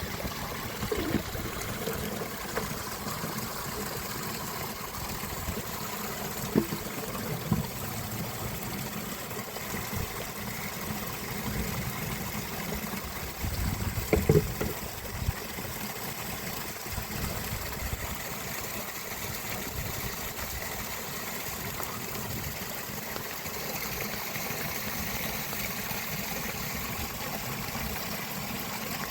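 Steady rush of flowing river water, with a few scattered knocks, including a short cluster about halfway through.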